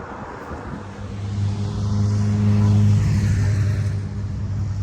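A car's engine and exhaust with a deep, steady rumble that grows louder from about a second in and eases off after about three seconds, like a car driving slowly past close by.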